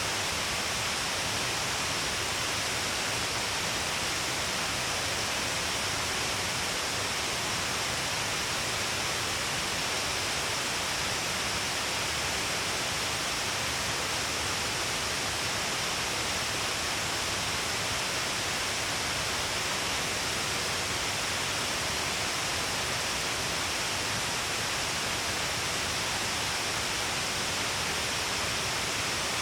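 Steady, unbroken rush of water at Shiraito Falls, an even hiss of falling and flowing water that holds level throughout.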